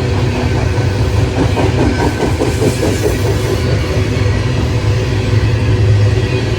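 Train passing close by: a steady low rumble, with a run of wheel clacks over rail joints from about one and a half to three and a half seconds in.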